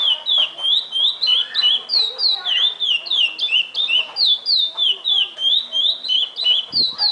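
Curió (chestnut-bellied seed finch) singing the classic 'praia' song: a continuous run of sharp, high whistled notes, about three a second.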